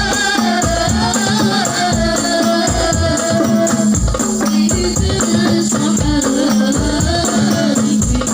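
Sholawat devotional music: frame drums beating a steady rhythm with jingling tambourine and a wavering melody over it.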